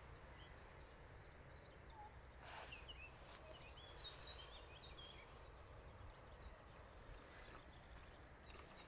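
Faint birdsong: a few short, high chirps from small birds, clustered a few seconds in, over a low steady rumble that is otherwise close to silence.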